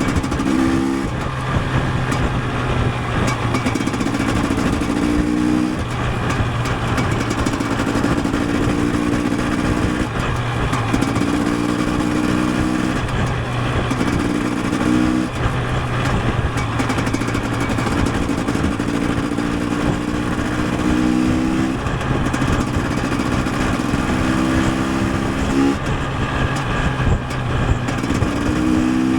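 KTM 250 EXC TPI single-cylinder two-stroke engine under way, revving up again and again with short breaks as it shifts gears, over a steady rush of wind and road noise.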